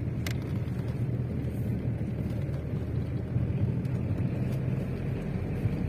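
Steady low rumble with a brief click about a third of a second in.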